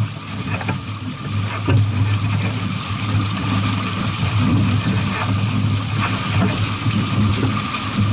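Boat under way on the water: a steady low hum with a rushing haze of water and wind noise and small irregular crackles.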